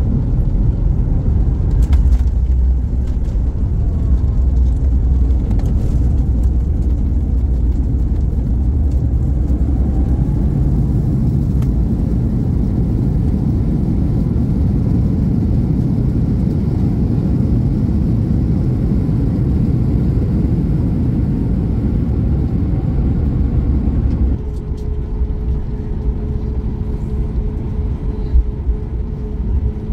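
Boeing 737 MAX 8 cabin noise just after landing: a loud, deep rumble as the jet rolls out on the runway, which drops suddenly near the end to a quieter steady hum with a faint whine as it slows.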